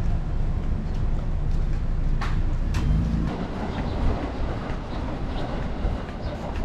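Steady low rumble of a vehicle in motion, with scattered sharp clicks and rattles.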